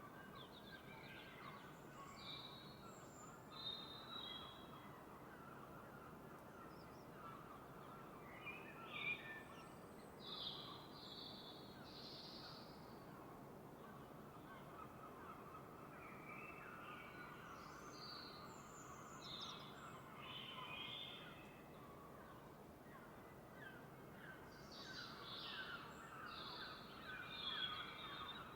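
Several birds calling and singing in a dawn chorus, in loose groups of chirps and short phrases, over a faint steady background hiss.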